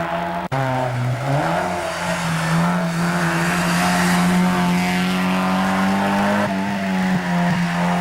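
Mazda MX-5 Cup race car engine running at high revs, cutting out abruptly for an instant about half a second in, then dipping in pitch and climbing back up before holding steady.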